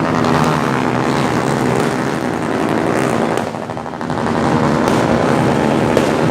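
Motorbike engines running steadily, with a few faint firework pops in the distance.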